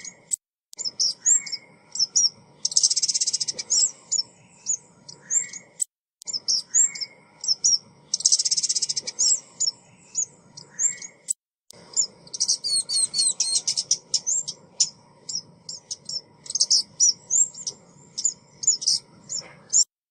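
Lure recording of a female ốc mít bird calling: rapid high chirps and short trilling runs, broken by brief silent gaps about every five to six seconds where the recording repeats. It cuts off abruptly at the end.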